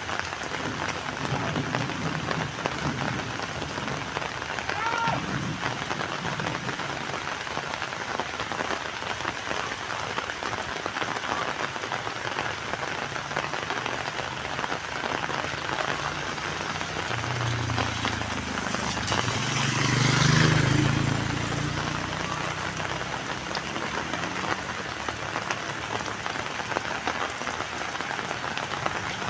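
Heavy rain falling steadily in a dense hiss. About two-thirds of the way through, a low rumble swells up and fades away over a few seconds.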